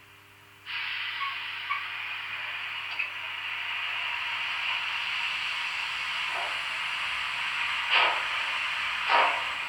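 Sound decoder of a Roco H0 model of a class 44 three-cylinder steam locomotive, playing Henning sound. A steady steam hiss starts suddenly about a second in. From about six seconds the first exhaust chuffs come in, each one closer to the last, as the locomotive starts moving.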